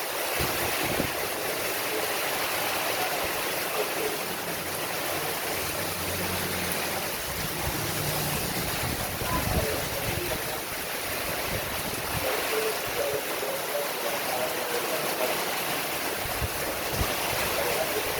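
Heavy rain pouring down steadily in strong wind, with a low rumble swelling up between about six and nine seconds in.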